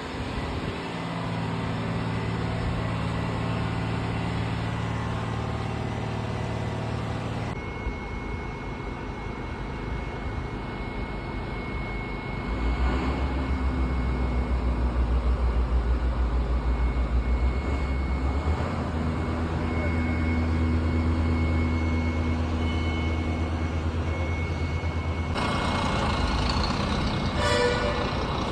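Diesel bus engines running in a bus depot: a steady idle at first, then a deeper, louder rumble from about halfway through.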